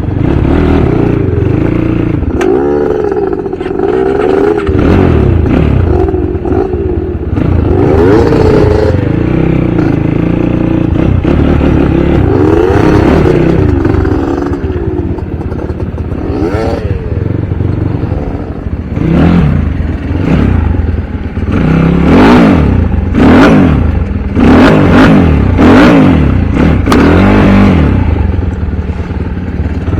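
Dirt bike engine revving up and down over and over, with a run of short, quick blips of the throttle in the second half.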